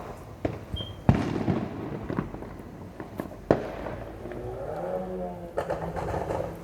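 Fireworks going off: a series of sharp bangs, the loudest about a second in, each followed by a rumbling echo. Near the end there is a wavering sound that looks like a voice.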